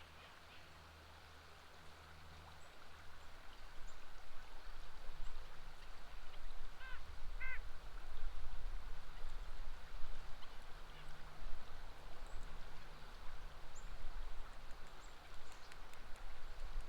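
River water flowing steadily, with two short bird calls, a quack or honk, about seven seconds in.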